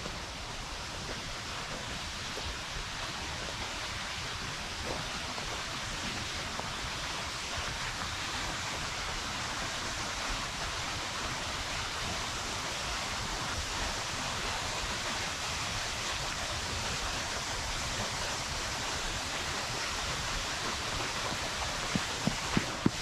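Steinsdalsfossen waterfall: falling water rushing in a steady, even roar, with a few short knocks near the end.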